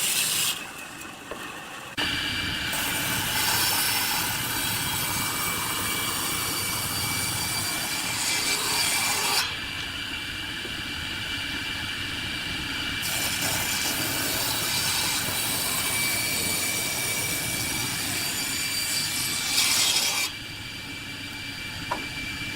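Woodworking power saw cutting wood, a steady rasping cut over a high machine whine, changing abruptly several times as short clips follow one another.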